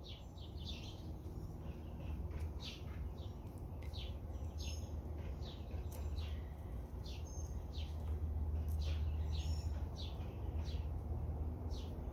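Small birds chirping, many short, quick descending chirps repeating throughout, over a steady low rumble.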